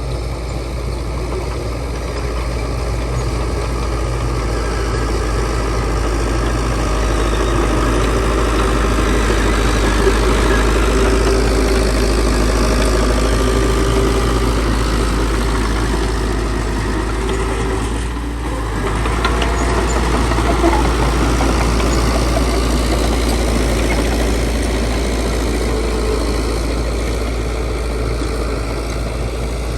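Heavy diesel engine of earthmoving machinery running under changing load: it swells a few seconds in, drops off briefly about two-thirds of the way through, then picks up again.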